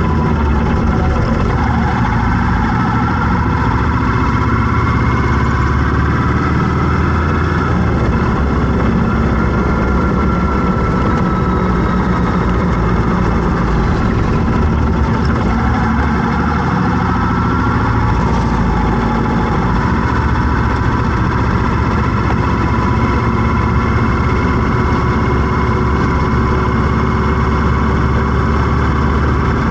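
Vehicle engine running steadily at a low pitch, heard close, with a constant drone of traffic around it.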